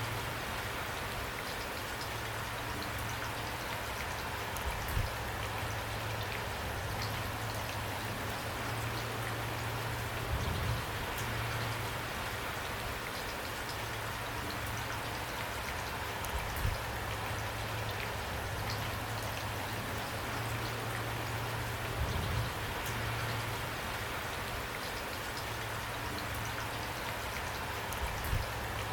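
Steady rain falling on a surface, an even hiss of drops, over a low steady hum. A soft low thump rises out of it about every five to six seconds.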